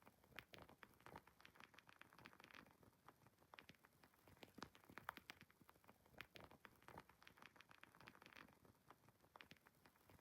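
Wood fire crackling faintly: irregular small pops and snaps, several a second, over a soft hiss.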